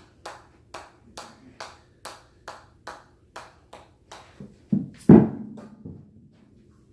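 Repeated hammer strikes at an even pace of about two a second, each a sharp click. About five seconds in come two louder, heavier thuds, and then the strikes stop.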